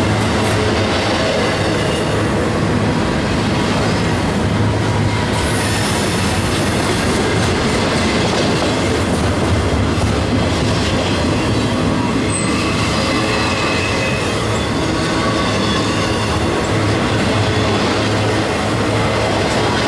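A freight train's cars rolling steadily past on the rails: a loud, continuous rumble of steel wheels on track, with faint wheel squeal at times.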